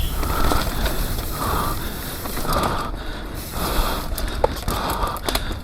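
Rumble and rattle of a full-suspension mountain bike descending a rough trail, with scattered clicks and knocks from the bike and ground. Over it the rider breathes hard in regular bursts, about one a second.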